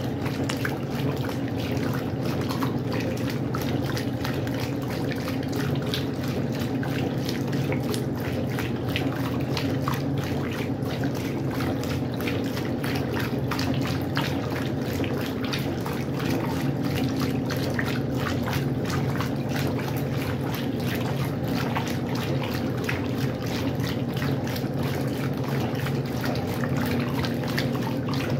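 Westinghouse washing machine running with water inside: continuous splashing and trickling over a steady low hum.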